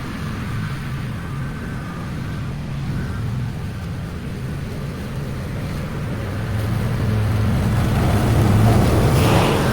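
Lawn mower engine running steadily, growing louder near the end.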